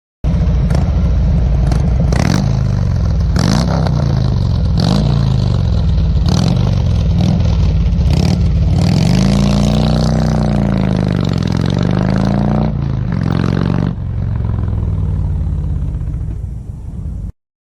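Vehicle engine revving, its pitch rising and falling over and over, with several sharp clicks. It starts and cuts off suddenly.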